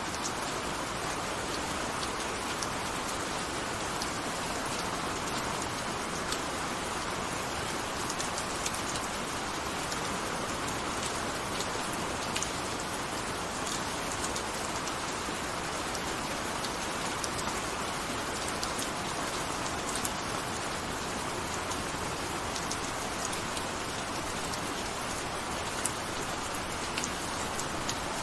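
Steady gentle rain falling, an even hiss with scattered individual drops ticking crisply on a surface.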